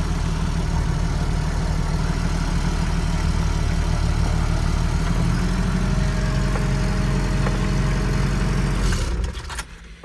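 1987 Toyota 4Runner's engine running steadily at low speed, then switched off about nine seconds in.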